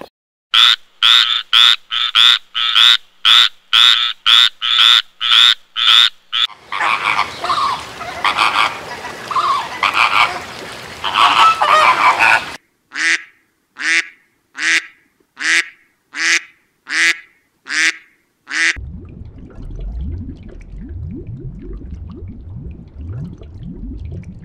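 A flock of flamingos calling with goose-like honks. First comes a fast run of loud calls, two or three a second, then a dense clamour of many birds at once, then slower single honks. About three-quarters of the way in, the calls stop and a low rumble of aquarium water takes over.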